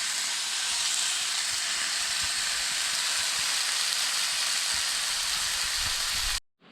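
Bacon sizzling as it fries in a pan: a steady hiss that cuts off suddenly near the end.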